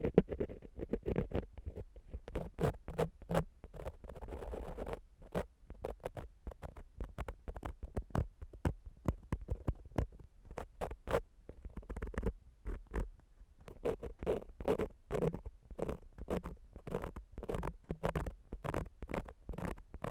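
Ear-cleaning tool scratching and rubbing on a microphone in quick, irregular strokes, with low rubbing rumble under the scrapes.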